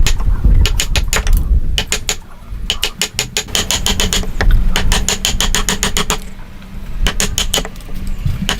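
A machine making rapid, evenly spaced clicks, about nine a second, in runs of half a second to a second and a half that stop and start, over a steady low rumble.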